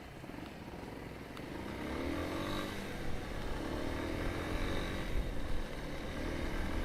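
Motorcycle engine pulling away and accelerating. Its pitch rises about two seconds in and again a couple of seconds later, over a low rumble that grows louder as speed builds.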